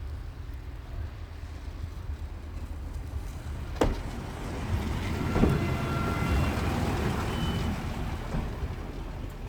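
A Malaxa diesel multiple unit running into the station, its engine and wheels on the rails growing louder past the middle, with a sharp click at the rail about four seconds in and brief high squealing tones.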